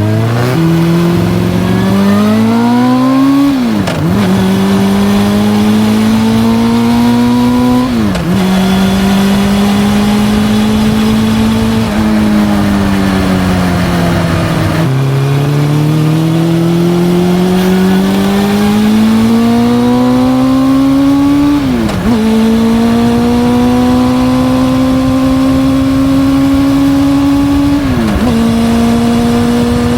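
Honda CB400SF Hyper VTEC's inline-four engine through a Yoshimura titanium full exhaust, accelerating through the gears. The engine note climbs and drops sharply at each of four upshifts. Midway the note sinks gradually as the throttle eases, then climbs again.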